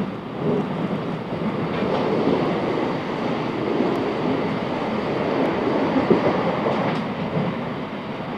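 A Class 707 Desiro City electric multiple unit running at speed, heard from inside the carriage as a steady rumble of wheels on rail, with a few faint clicks.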